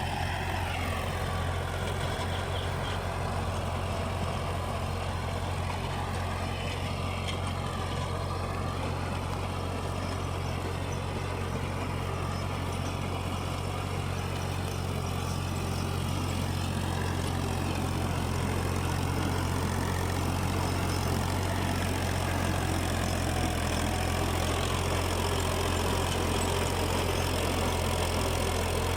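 Fiat 480 tractor's diesel engine running steadily under load while it drives a rotavator churning through grass.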